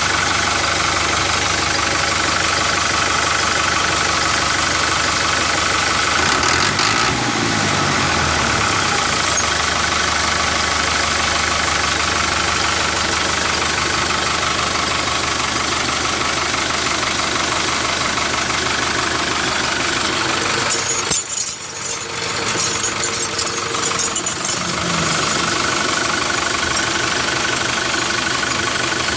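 Small motor of a DIY mini tractor running steadily, its pitch briefly rising and falling a few times, with a short drop in level about two-thirds of the way through.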